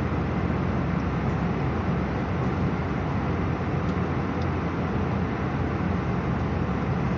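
Steady cabin noise inside an Airbus A319 with its engines running: an even, low hum of engine and air noise that does not change.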